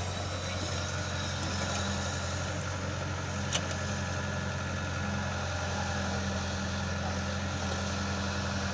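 Tractor engine idling steadily, with a single sharp click about three and a half seconds in.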